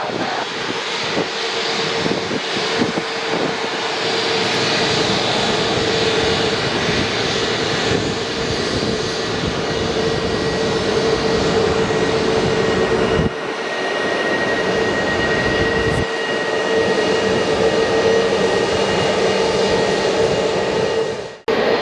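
Airbus A320neo jet engines running at takeoff power: a loud, steady roar with a steady whine through it. The sound drops out for a moment near the end.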